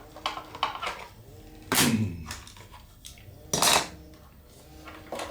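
Clamps being taken off a glued balsa model fuselage and set down on a workbench: a run of small clicks, then two louder clatters about two and three and a half seconds in.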